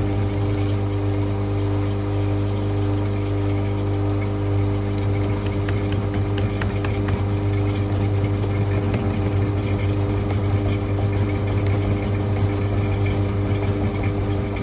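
A machine motor running steadily with a constant low hum, with faint light ticking from about five seconds in.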